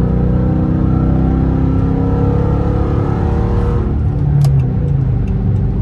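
Straight-piped 5.7-litre HEMI V8 of a 2013 Dodge Charger R/T running on the highway, its exhaust droning at a steady pitch, then changing note about four seconds in.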